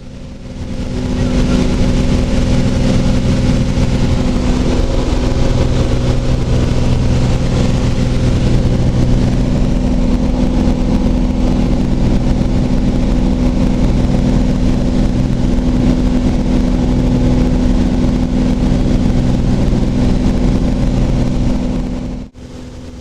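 Cessna 182's piston engine and propeller running steadily at cruise, heard inside the cabin. The sound swells up about a second in and cuts off abruptly near the end.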